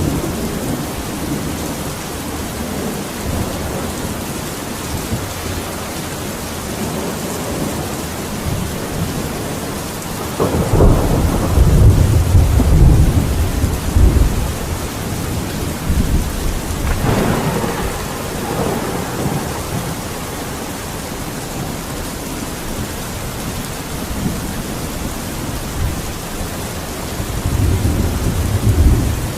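Steady rain falling during a thunderstorm. A long low rumble of thunder swells about ten seconds in and lasts several seconds, a sharper peal follows about seventeen seconds in, and another rumble rises near the end.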